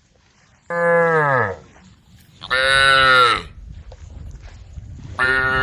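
Cows mooing: three loud moos of about a second each, a couple of seconds apart, the first dropping in pitch as it ends.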